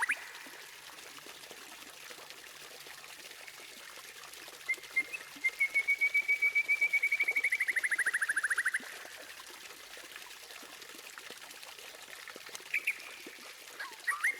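White-rumped shama (murai batu) song: one long, rapid trill of about four seconds in the middle that drops in pitch at its end, then a few short whistled notes near the end, over a faint steady hiss.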